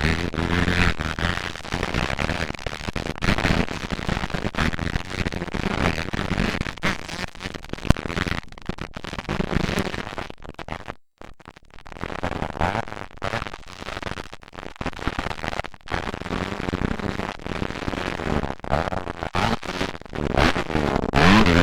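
Motocross dirt bike engines racing and revving, a loud, harsh crackling blare with pitch rising as the bikes open the throttle near the start and again near the end; it drops out briefly about eleven seconds in.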